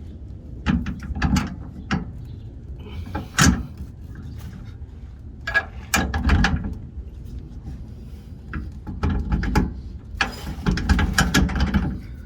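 Irregular metallic clicks and knocks from hand tools and strut mounting hardware being worked while a strut assembly is fastened, in several clusters: about a second in, around three and a half seconds, around six, around nine, and a busy run near the end.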